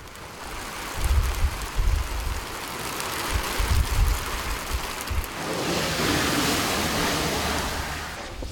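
Heavy rain pouring down, a steady hiss, with gusts of wind buffeting the microphone through the first half. About five seconds in the downpour becomes denser and fuller.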